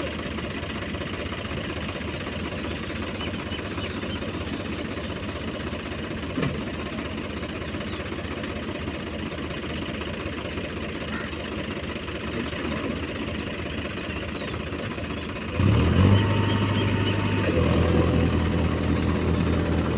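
Tractor diesel engine running steadily. About three-quarters of the way through it gets much louder and settles into a strong, even drone as the engine speed is raised, as it would be under load for a pull.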